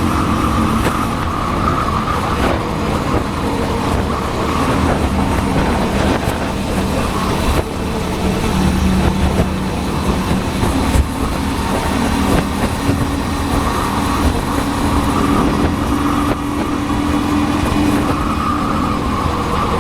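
Motorcycle engine running steadily under way, its pitch drifting a little, with road and air rush, as heard from a helmet-mounted camera.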